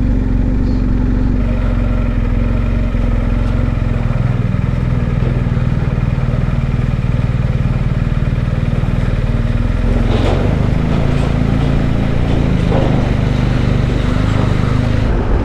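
Adventure motorcycle engine running steadily while riding, under a constant rush of wind and road noise; the engine note changes about ten seconds in.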